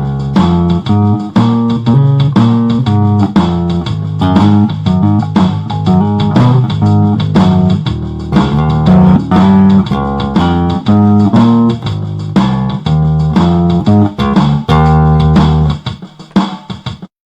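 Donner P-style four-string electric bass playing a run of plucked notes, tapering off and stopping just before the end.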